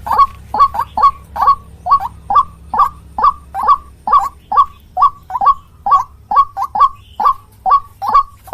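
White-breasted waterhen (ruak-ruak) calling: a steady run of short, loud notes, about two to three a second, some in quick pairs.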